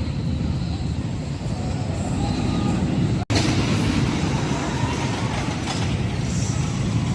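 Storm Chaser roller coaster train running along its track: a steady low rumble. It breaks off for an instant about a third of the way through, then carries on.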